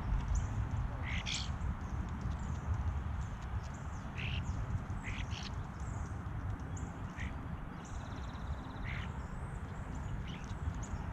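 Wild birds calling around a backyard feeder: several short, sharp calls that sweep down in pitch, spread a second or more apart, among fainter high chirps, over a steady low rumble.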